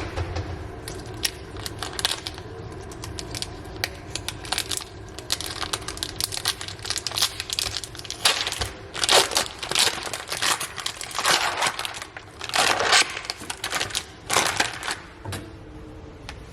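Kitchen food-prep handling: packaging crinkling and rustling mixed with scattered small clicks and knocks, with several louder rustling bursts in the second half.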